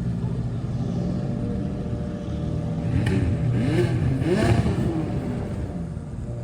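A car engine revved in a few quick blips, rising and falling in pitch about three seconds in, over the steady low rumble of idling traffic.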